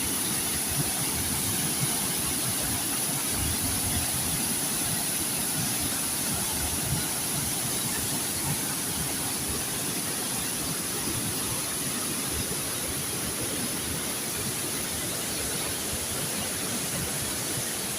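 Waterfall rushing steadily, an unbroken wash of falling water, with a steady high-pitched hiss above it.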